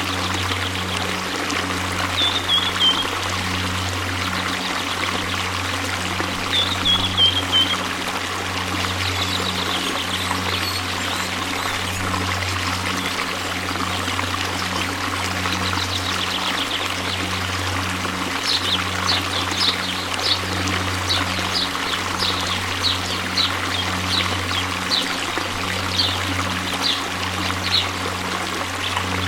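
Waterfall: water pouring and splashing in a steady rush. Short high chirps sound over it, a few early and then a run of about one or two a second through the second half.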